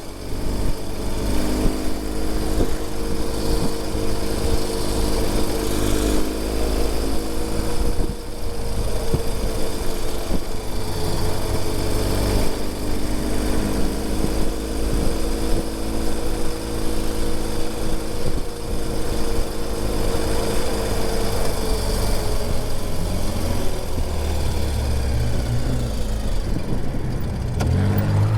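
The air-cooled flat-twin engine of a Ural Gear Up sidecar motorcycle running under way. Its pitch slowly rises and falls as speed changes, over a steady low rumble.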